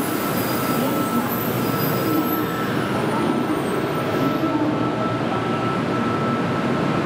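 N700-series shinkansen train rolling slowly alongside the platform and drawing to a halt: a steady running hum with a thin steady whine, and a high hiss that fades out about four seconds in.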